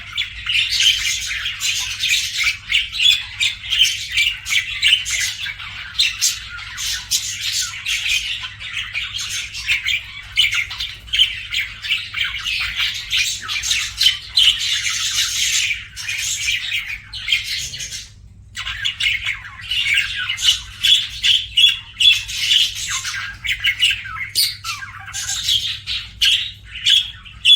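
Budgerigar chirping and chattering in a rapid, continuous stream of high calls, with a short pause about eighteen seconds in.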